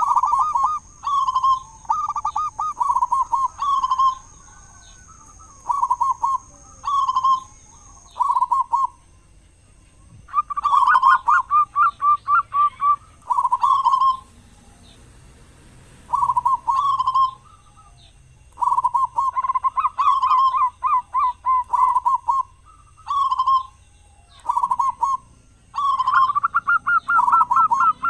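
Zebra dove (perkutut) cooing in repeated phrases of rapid staccato coo notes, with short pauses between phrases and two longer breaks.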